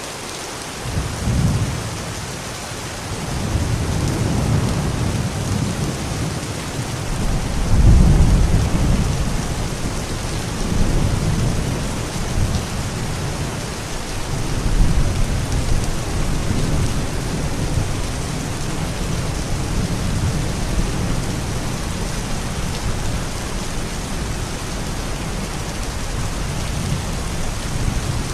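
Steady rain falling, with thunder rumbling through it: a deep roll starts about a second in, swells loudest about a quarter of the way through, surges again near halfway, and keeps rolling lower to the end.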